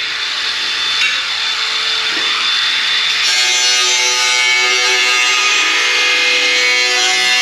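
A power tool cutting through rusted sheet-steel sill metal, a harsh rasping hiss, with background music over it from about three seconds in.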